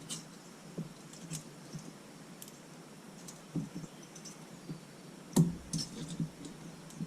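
Light metallic clicks and taps of a camshaft and its bearings being handled and set into the cylinder head of an ATV engine, with one louder clunk about five and a half seconds in.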